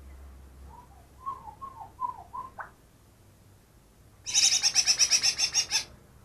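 Green leafbird (cucak ijo), a mimic of other birds' calls, singing: a few soft warbled notes, then, about four seconds in, a loud fast rattling trill of about a dozen notes lasting under two seconds.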